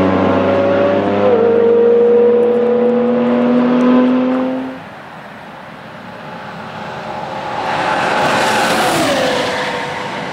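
Lexus LFA race car's V10 accelerating hard, its note climbing, with a quick upshift about a second in. About five seconds in it cuts off, and a white Lexus LFA's V10 is heard approaching and passing by, its pitch dropping sharply as it goes past.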